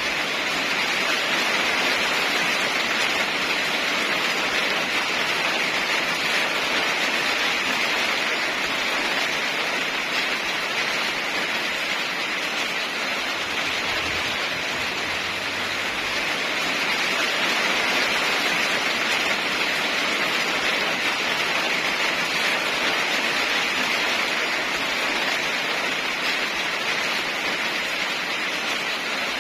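Steady rain falling as an even hiss that swells and eases slightly but never stops.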